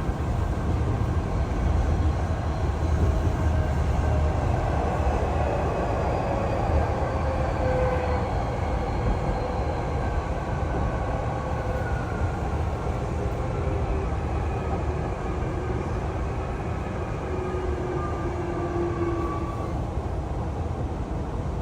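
Hankyu commuter train running, heard from inside the car: a steady rumble of wheels on rail, with the traction motors' whine gliding slowly down in pitch.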